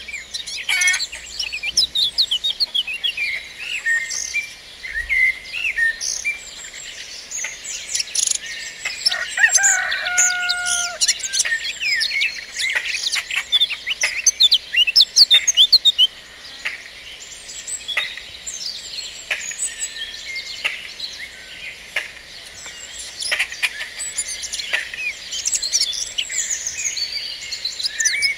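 Many small songbirds chirping and singing at once, a busy dawn-chorus-like mix of short high chirps and trills, with one lower, drawn-out call about nine to eleven seconds in.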